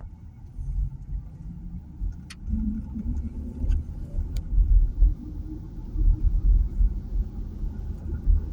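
Uneven low rumble of a moving vehicle, swelling and fading, with a few faint clicks.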